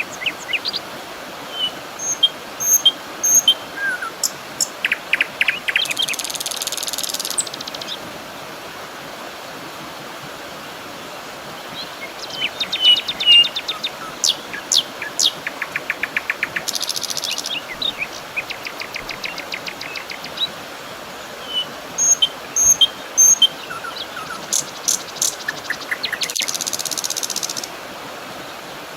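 Birds chirping and calling over a steady outdoor hiss, with short rapid trills and a few high buzzy bursts; the same sequence of calls comes round about every ten seconds.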